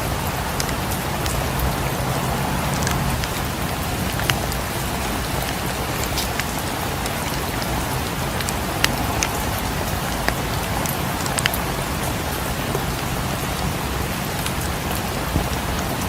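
Steady rain falling, with a few sharp pops or ticks now and then.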